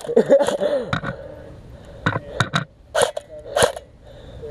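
Airsoft guns firing a string of single shots, about eight sharp irregular cracks over a few seconds, with a brief shout near the start.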